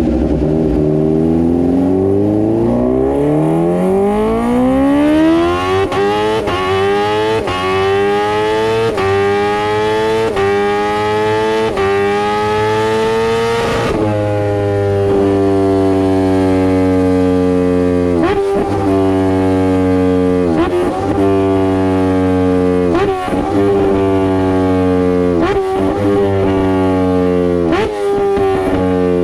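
Kawasaki H2R's supercharged inline-four running on a dyno. The pitch climbs steadily in small steps, as if up through the gears, for about fourteen seconds, then drops slightly and holds high with short sharp dips every two to three seconds, falling away near the end.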